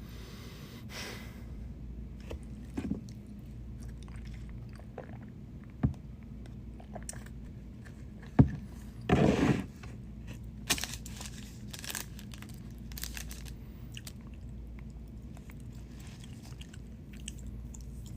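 Close-up eating sounds: a person biting and chewing a burger, with small mouth clicks over a steady low hum. A sharp knock comes about eight seconds in, followed at once by a short rustle.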